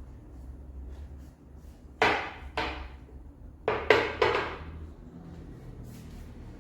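Hard household items knocked and set down, or drawers and doors moved, during refrigerator organizing: five sharp knocks between about two and four and a half seconds in, over a low steady hum.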